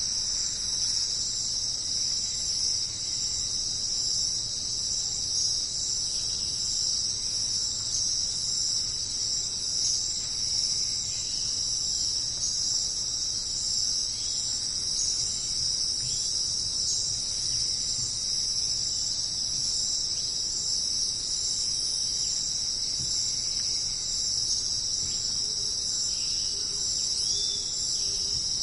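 Dense, steady chorus of jungle insects: a continuous high-pitched shrilling that neither swells nor stops, with a faint repeated low call joining near the end.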